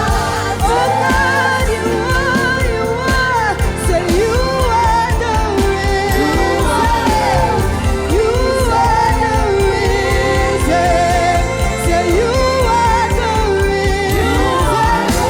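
Live gospel praise-and-worship music: voices singing with a wavering vibrato over steady band accompaniment.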